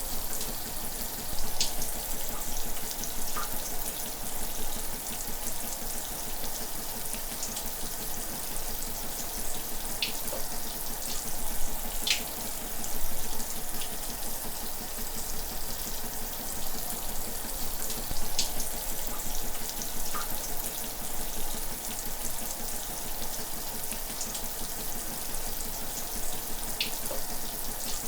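Shower water running steadily, a continuous hiss with occasional brief splashes every few seconds.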